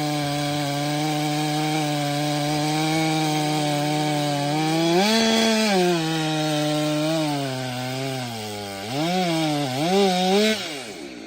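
Stihl MS 462 C-M two-stroke chainsaw cutting firewood, held at a steady, lower pitch under load. About five seconds in it revs up sharply and falls back. Near the end it gives two quick revs, then drops off.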